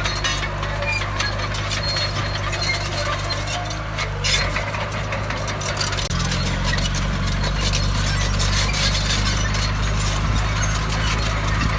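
Heavy diesel construction machine running, its engine note getting louder and deeper about six seconds in as it comes under load. A dense run of small metallic clinks and squeaks goes on over the engine.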